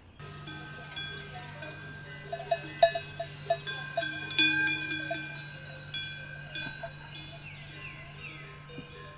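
Metal bells clanking and ringing irregularly, with a quick run of strikes a few seconds in, over a steady low hum.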